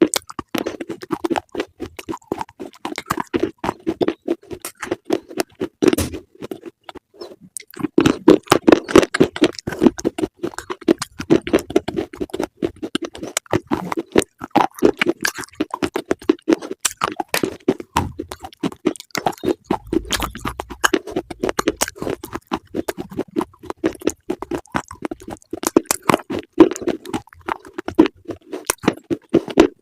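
Close, crunchy chewing of crisp food: rapid crisp crunches many times a second, with a short pause about seven seconds in.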